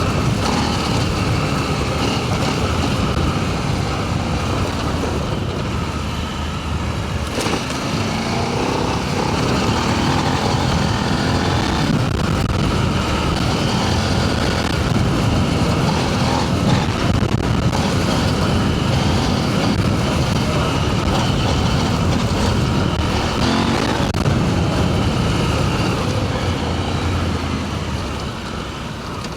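Adventure motorcycle engine running on a gravel trail, its pitch rising and falling with the throttle, over steady wind and tyre noise.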